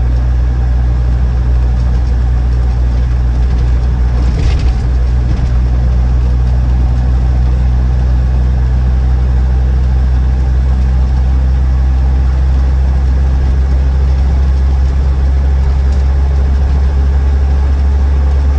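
Land Rover Defender 90 TD5's five-cylinder turbodiesel and road noise, heard from inside the cabin while cruising at a steady speed: an even, low drone. A short higher-pitched noise breaks in about four and a half seconds in.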